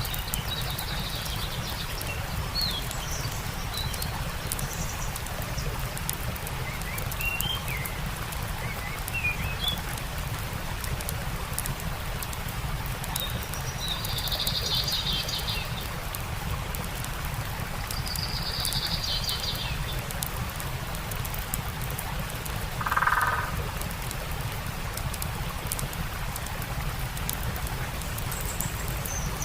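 Campfire crackling beside a running stream, with songbirds chirping now and then and giving two short trilling phrases around the middle. About three-quarters through, a brief, louder, lower-pitched call stands out.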